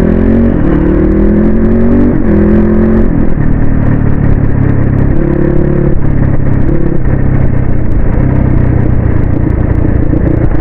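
Motorcycle engine heard from the saddle while riding, its pitch climbing and dropping back in steps as it accelerates through the gears, then running steadier, with wind rushing over the microphone.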